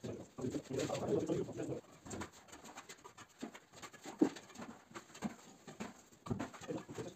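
Pigeon cooing low for about a second and a half near the start, then a single sharp click about four seconds in.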